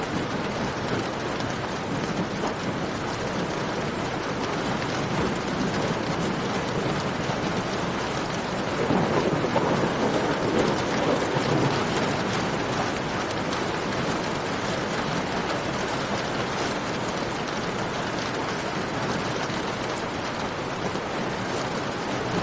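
Steady rain falling in a cave, a dense even hiss with fine crackling ticks from a campfire. About nine seconds in the sound swells louder and fuller for around three seconds, then settles back.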